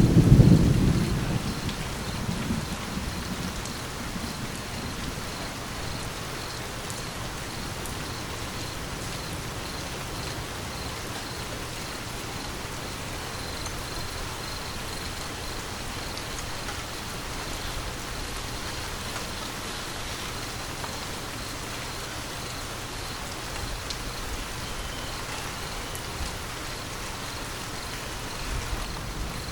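Steady rain falling, with a rumble of thunder dying away over the first few seconds and another starting to build right at the end.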